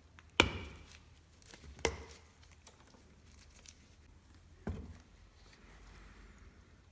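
Three sharp knocks and a few light clicks of parts being handled while a new oil filter is made ready, the loudest about half a second in and the last near the five-second mark.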